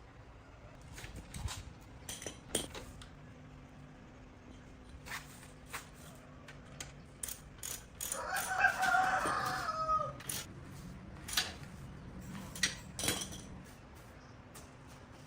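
A single pitched animal call about two seconds long, falling in pitch at its end, amid scattered sharp clicks and taps.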